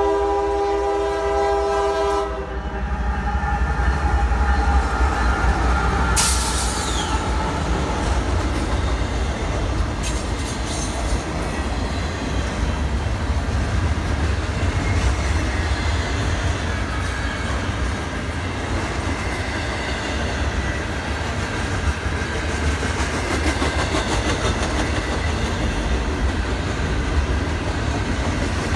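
A train horn sounding several tones at once and cutting off about two seconds in, then the train running through with a steady low rumble and rail noise, and a brief high screech around six seconds in.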